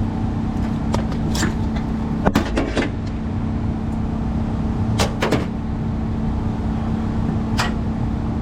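An engine running at a steady idle, with several sharp clicks and clunks over it, the loudest a cluster about two and a half seconds in.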